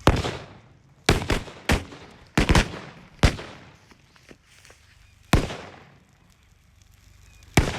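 A heap of petrol-soaked firecrackers going off as it burns: about nine sharp bangs at uneven intervals, some in quick pairs, each trailing off briefly.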